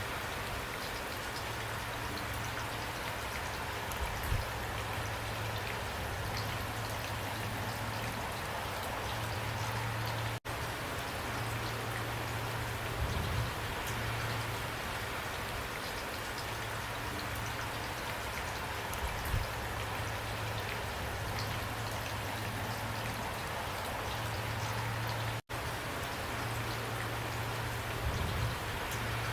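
Steady rainfall, an even hiss with scattered individual drops and an occasional low thud. The sound cuts out for an instant twice.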